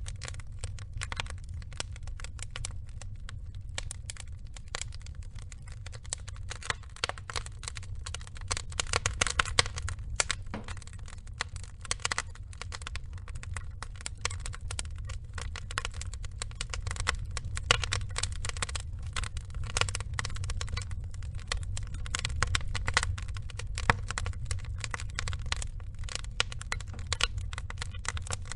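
Burning logs crackling and popping in a wood fire: rapid, irregular snaps over a steady low rumble of the flames, with busier clusters of pops about a third and two thirds of the way through.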